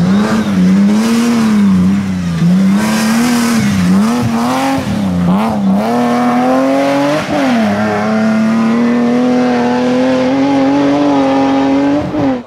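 Rally car engine at hard throttle on a special stage. For the first several seconds the pitch rises and falls with throttle lifts and gear changes, then it climbs in one long pull. It cuts off suddenly near the end.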